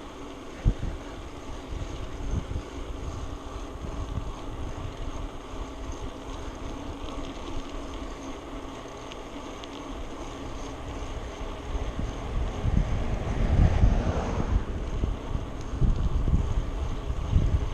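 Wind buffeting the microphone of a camera carried on a moving bicycle, with a low rumble that grows louder and gustier from about twelve seconds in.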